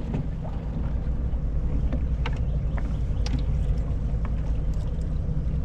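Boat ambience on the river: a steady low rumble, with a few short, light clicks and taps scattered through it.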